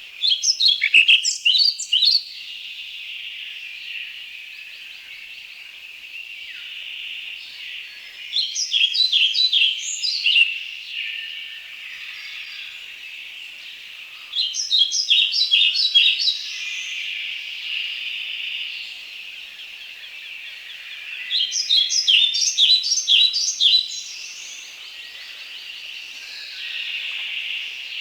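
European pied flycatcher singing: short phrases of quick, sharp notes, each about two seconds long, repeated every six to seven seconds, over a steady high-pitched background hiss.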